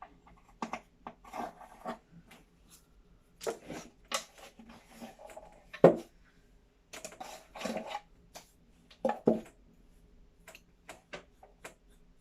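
Scattered taps, rubs and scrapes of painting supplies and a small wooden birdhouse being handled on a tabletop, with one sharper knock just before six seconds in.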